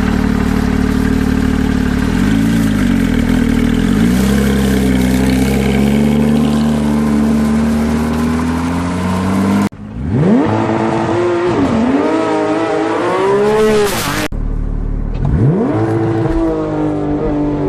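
Porsche 911 GT3 flat-six with a Sharkwerks aftermarket exhaust. For the first ten seconds it holds steady high revs, with a couple of brief dips, as on launch control. Then come two hard accelerations, each with steeply rising revs and a quick drop at an upshift.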